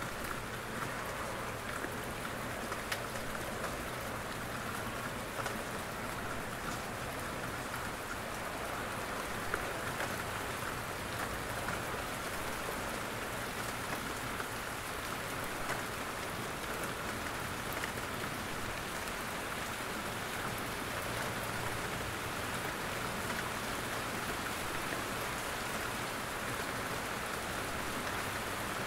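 Steady rain falling in a forest, a constant patter with occasional louder single drops falling from the trees.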